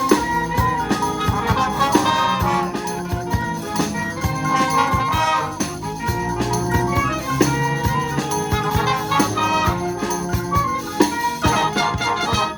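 Youth wind band playing live: brass and woodwinds sounding sustained chords and melody, with steady percussion hits.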